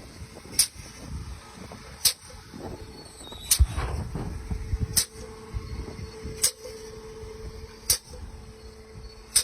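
Drilling rig machinery running with a steady low rumble and hum, a sharp click repeating about every one and a half seconds, and one heavy thump about three and a half seconds in.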